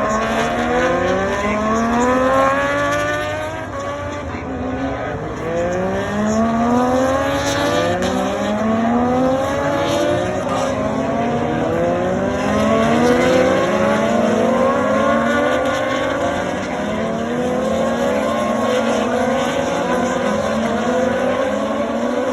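Racing motorcycle engines at high revs, several bikes overlapping. Their pitch climbs again and again as they accelerate up through the gears.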